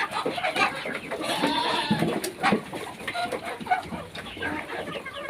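Domestic chickens clucking among a feeding flock of poultry, with short irregular calls and a few sharp clicks.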